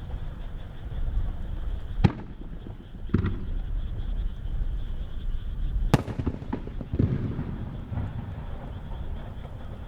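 Aerial firework shells bursting: sharp bangs about two, three and six seconds in, the third the loudest, each trailing off in a rolling echo, with a few smaller cracks after the last one over a low steady rumble.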